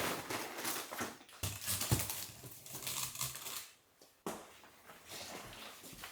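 Handling noises: irregular rustling and crinkling, like plastic packaging or bags being handled, with a few knocks about two seconds in.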